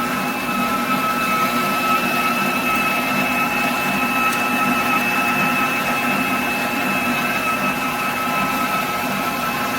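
COOKLEE 660 W stand mixer running steadily with its flat beater, creaming butter, sugar and eggs: a constant motor whine that holds one pitch.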